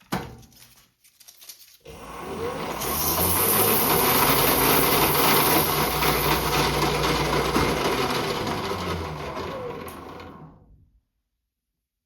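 A click, then a small metal lathe spinning up, running steadily with a loud hiss as sandpaper is held against the turning workpiece to finish it, and winding down near the end.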